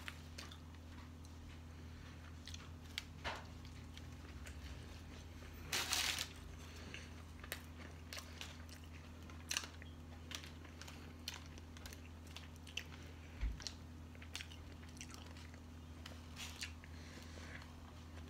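A person chewing and biting into a sandwich, with irregular soft mouth clicks and smacks, and one louder crunchy rustle about six seconds in. A steady low hum runs underneath.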